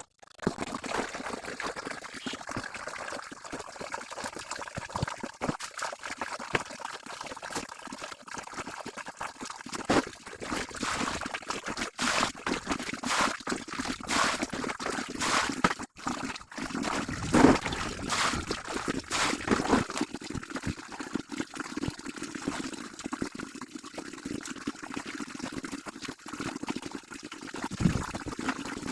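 Laundry being washed manually: water sloshing, trickling and pouring, with irregular splashes, busiest in the middle.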